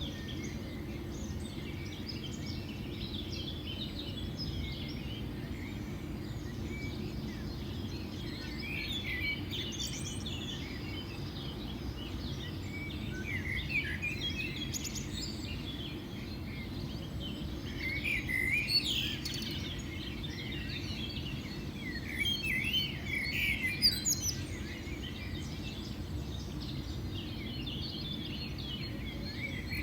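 Small birds chirping and twittering in scattered bursts that grow busier in the second half, over a steady low background rumble.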